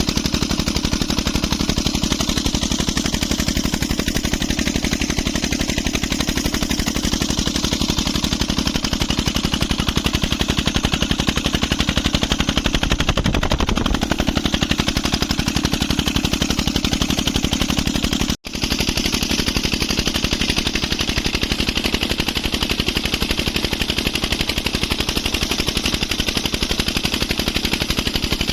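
Stationary Petter engine driving a tubewell pump, running steadily with a rapid, even train of exhaust beats. The sound cuts out for an instant about two-thirds of the way through.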